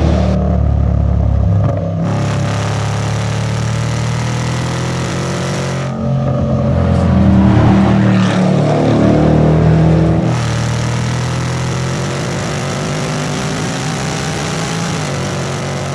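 Range Rover Sport SVR's supercharged 5.0-litre V8 engine and exhaust running hard under acceleration, over several edited clips. Between about six and ten seconds in the note rises and falls as the car passes close by; after that it holds a long, steadily rising pull.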